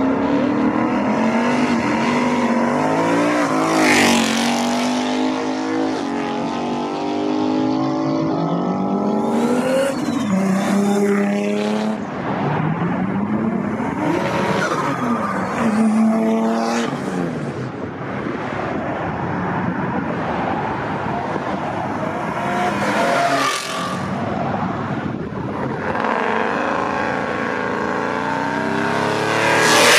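Sports cars driving off one after another, their engines revving up and dropping back through gear changes. The loudest passes come about four seconds in, around twenty-three seconds, and right at the end.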